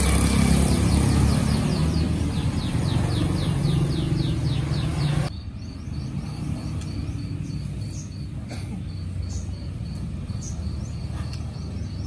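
Bird chirping in quick, even repeats over a low rumble for about five seconds. Then it suddenly turns quieter, with a bird's short high notes repeated about three times a second.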